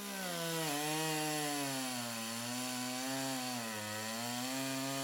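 Snowmobile engine running steadily, its pitch dipping about half a second in and then wavering gently up and down.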